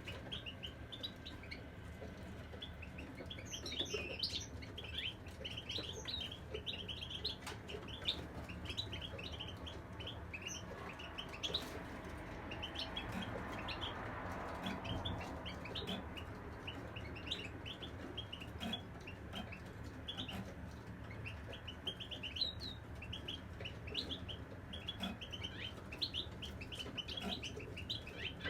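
European goldfinches chirping and twittering, a continuous stream of quick short notes.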